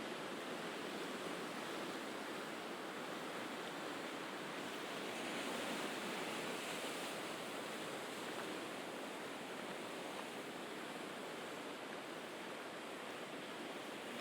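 Sea waves washing steadily on the shore, swelling a little about six seconds in.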